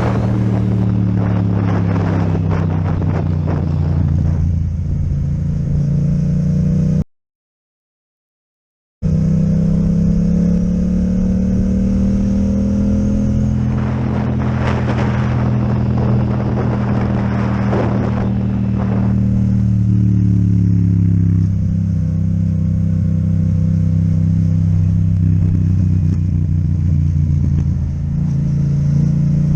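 Yamaha MT-07 parallel-twin with an Akrapovic exhaust running on the move, its note sliding down, then rising and holding steady as the throttle changes, with rustling wind noise on the microphone partway through. The sound drops out completely for about two seconds early on.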